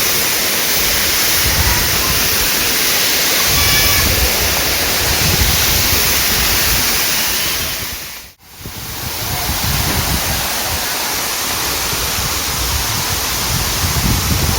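Waterfall: a steady, loud rush of falling water. It fades out briefly a little past halfway and comes straight back.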